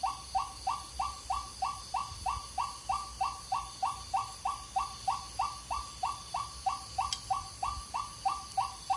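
A white-breasted waterhen (ruak-ruak) call imitated by mouth as a lure: a steady, unbroken run of short notes, about three and a half a second, each dipping slightly in pitch.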